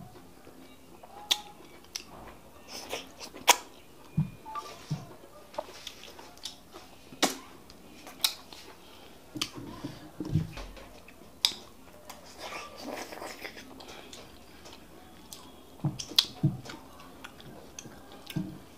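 Close-miked, wet open-mouth chewing and lip smacking while eating soft fufu with bitter leaf soup, heard as many irregular sharp smacks and clicks.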